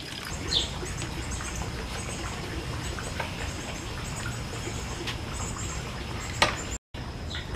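Outdoor background with small high-pitched chirps repeating in short groups over a low steady rumble. A sharp click about six and a half seconds in, then a brief dropout.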